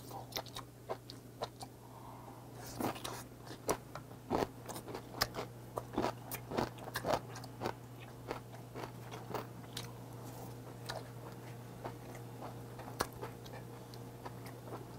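Close-up chewing of boiled beef tongue with the crunchy stem end of kimchi: wet mouth clicks and crunches, thickest in the first half and thinning out later.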